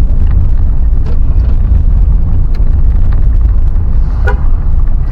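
Loud, steady low rumble of a moving road vehicle, with a short pitched tone about four seconds in.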